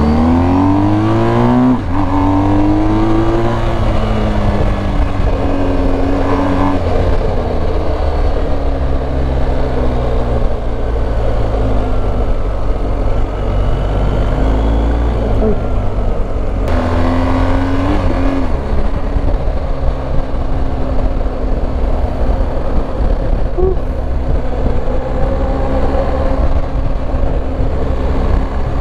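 BMW R1250 GS Adventure's 1254 cc boxer-twin engine heard from the rider's seat as the bike accelerates: the engine note rises, drops at a gear change about two seconds in, rises again and then settles into a steady cruise. A second gear change and pickup comes a little past halfway.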